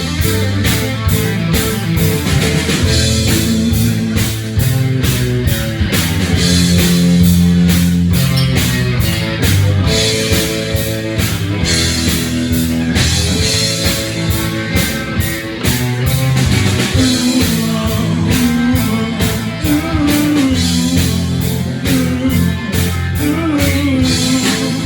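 Rock band playing, with drum kit, bass and electric guitar; no words are made out over the instruments.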